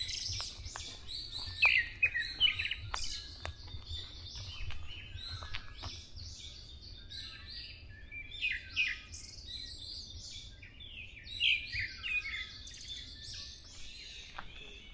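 Wild songbirds chirping and trilling in several bursts of quick high calls, with a faint low rumble underneath.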